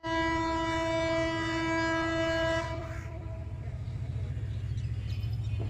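A diesel locomotive's horn sounds one long steady blast for about two and a half seconds, then cuts off. The low rumble of the train's engine and wheels carries on underneath.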